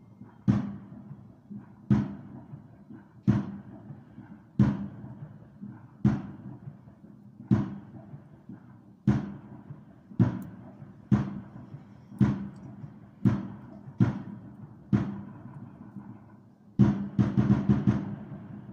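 Aerial firework shells bursting overhead: a steady series of about fourteen booms, roughly one every second and a half, each dying away briefly, then a quick run of bangs near the end.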